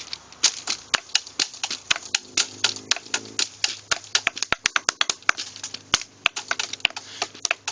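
Sticks drumming on natural objects (a rock, wood and a tree) as a makeshift drum kit: a fast, uneven run of sharp dry clicks and knocks, several a second.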